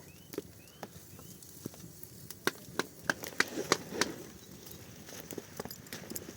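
A quick series of sharp cracks and snaps, about a dozen within a second and a half, starting a little over two seconds in. A couple of short rising chirps come in the first second.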